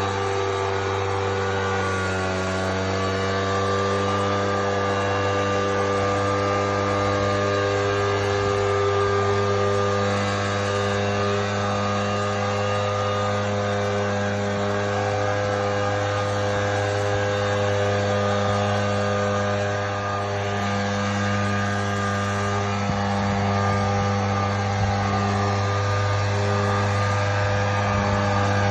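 Engine-powered blower running steadily at high throttle, a constant engine drone. Its pitch dips slightly about two seconds in, then holds.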